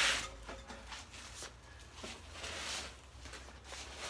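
Handling of a large cardboard bike box: light knocks, shuffling and rustling of cardboard. A louder scraping rush cuts off just after the start.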